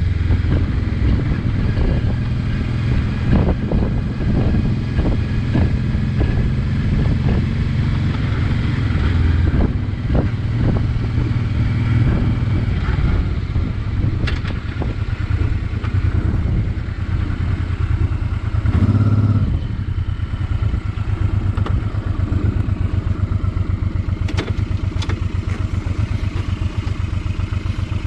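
Honda NT650V Deauville's V-twin engine running under way, then about twenty seconds in settling into an even, pulsing beat, with a few light ticks and clatter near the end.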